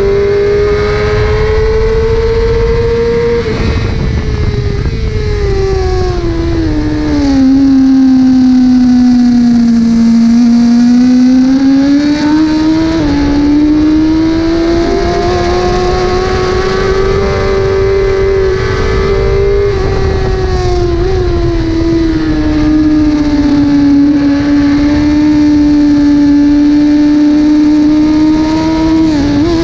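1000 cc superbike engine running hard on a racetrack at high revs. Its pitch falls over several seconds as the bike slows, then climbs back and holds high.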